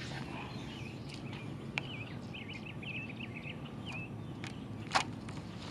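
A songbird sings a run of short, quick, wavy notes over a quiet outdoor background, with a sharp click about five seconds in.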